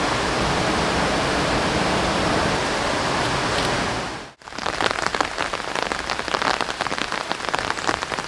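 Steady rush of a mountain river for about four seconds, then a sudden cut to heavy rain falling, a dense patter of many close drop impacts.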